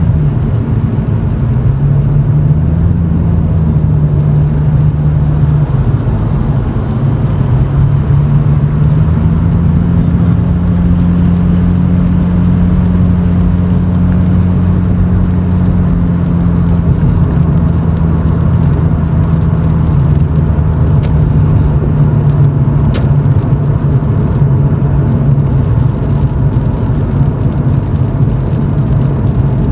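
Exhaust drone of a GX100 Toyota Chaser's straight-six through an aftermarket Reinhart cannonball muffler with a silencer insert, heard from inside the cabin while driving slowly. A steady low drone whose pitch rises and falls a little as the revs change.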